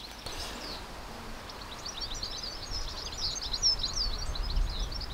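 Small birds twittering: a dense run of quick, high chirps that starts about a second and a half in, over a low rumble.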